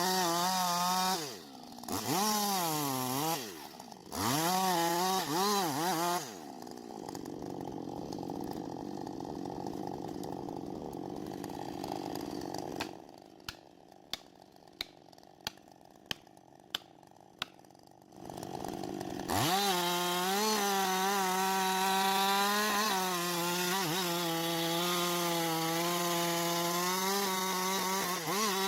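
Chainsaw cutting wood at high revs, its pitch dipping and recovering as the chain bogs in the cut, then running quieter for several seconds. Partway through it stops, and about seven sharp knocks come roughly two a second, before a chainsaw runs steadily at high revs through the cut again.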